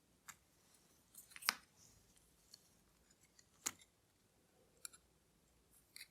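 Sparse, faint, sharp clicks and taps of watchmaker's tools on small metal watch parts as the movement is taken apart, about five in all, the loudest about one and a half seconds in.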